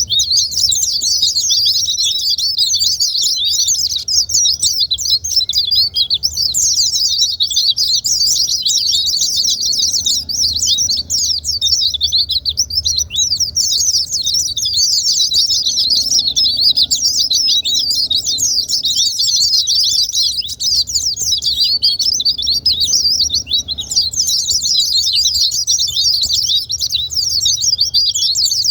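Pleci (white-eye) singing a long, unbroken run of fast, high twittering notes. It is a lure song used to spur pleci into singing.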